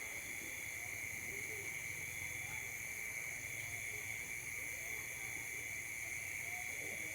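Night insect chorus, crickets or similar, shrilling steadily in several continuous high-pitched tones.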